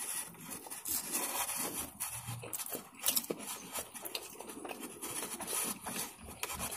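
Close-up chewing and mouth sounds of a person eating fried food: uneven soft crunches, smacks and small clicks.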